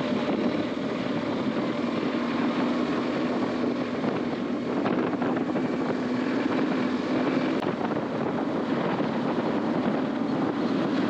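BMW R1250GS boxer-twin motorcycle riding at a steady speed, its engine holding one even note under a constant rush of wind on the microphone.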